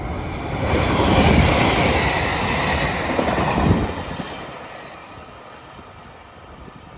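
A train passing close by on the line at a level crossing: wheels rumbling and clattering on the rails under a high whine that falls slightly in pitch. The noise drops off suddenly about four seconds in as the end of the train goes by, then fades away.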